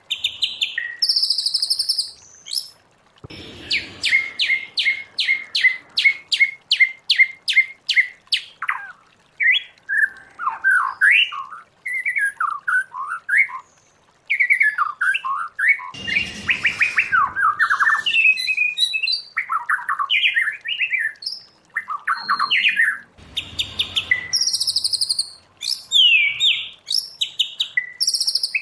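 White-rumped shama singing a long, varied song. It opens with high clear notes, then a quick run of sharp repeated notes at about four a second, then rising and falling whistled phrases mixed with harsher notes.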